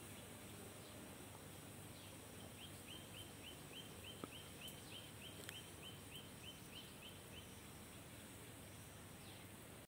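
Near silence with faint background hiss, through which a small bird gives a faint run of short high chirps, three or four a second, for about five seconds in the middle.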